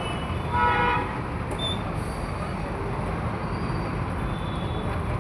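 Busy road traffic: a steady rumble of passing vehicles, with a loud horn honk about half a second in lasting about half a second, and fainter horns now and then.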